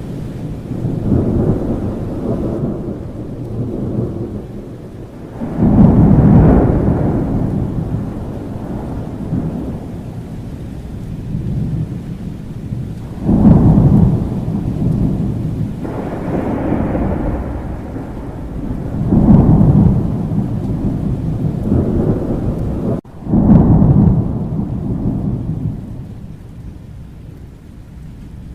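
Thunderstorm: steady rain with repeated rolling thunder, the loudest rumbles starting suddenly about 6, 13, 19 and 23 seconds in and fading over a few seconds. A momentary cut in the sound comes just before the last loud rumble.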